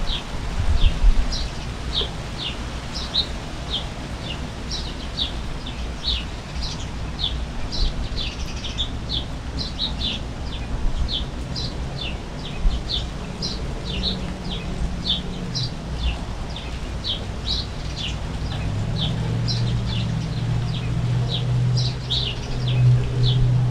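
Finches chirping steadily in short high calls, two or three a second, over a low rumble of wind and rain. A low steady hum comes in about halfway through.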